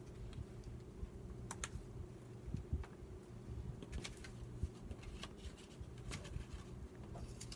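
Scattered light clicks and taps of paper and craft materials being handled at a worktable, over a low steady hum.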